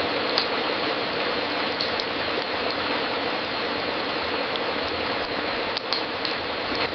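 Wood fire crackling in a fireplace: a steady hiss with scattered sharp pops and snaps, several of them close together around the second and sixth seconds.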